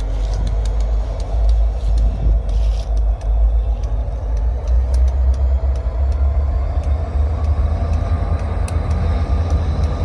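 Deep, steady rumble of a diesel freight locomotive working at low speed, with a faint steady tone above it and scattered light clicks.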